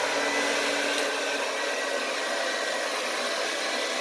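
Hand-held blow dryer running steadily on its cool setting, a constant rush of air with a few faint steady tones in it.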